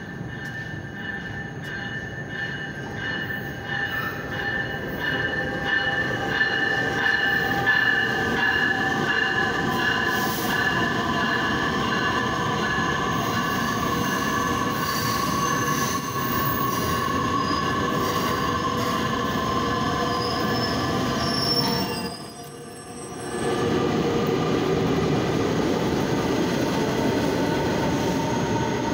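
Metra Electric Highliner bilevel electric train pulling into an underground platform: a rumbling run that grows louder over the first several seconds, with steady high-pitched squealing from wheels and brakes. The sound drops out briefly about three quarters of the way through.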